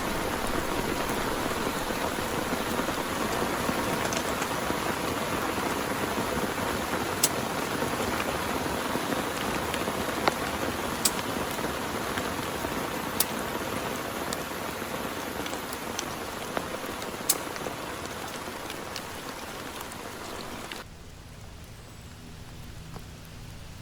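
Heavy rain falling steadily, with a few sharp single drop ticks standing out. About 21 seconds in, it cuts suddenly to much quieter rain.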